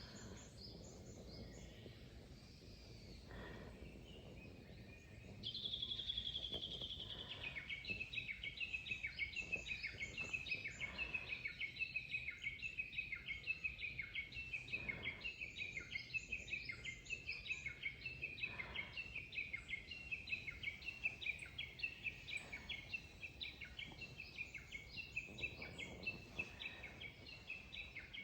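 Japanese bush warbler (uguisu) calling: a held high whistle about five seconds in, then a long run of rapidly repeated notes that goes on and on. Other small birds chirp faintly behind it.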